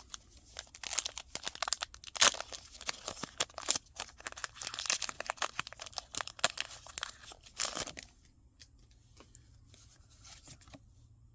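Foil booster pack wrapper being torn open and crinkled, a dense crackling that dies down about eight seconds in to faint handling sounds.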